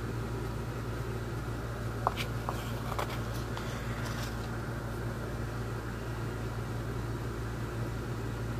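Steady low hum with a few light ticks and scrapes about two to four seconds in, as wood filler is packed into a wooden radio cabinet.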